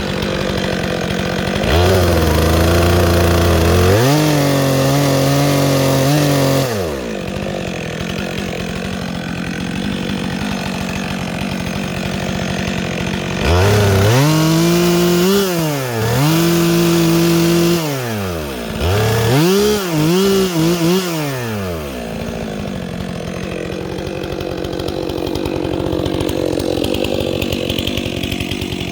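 Chainsaw running throughout, its engine note dropping lower and getting louder three times as the saw is loaded in the cut, then rising again between cuts; the third bout comes in short stabs.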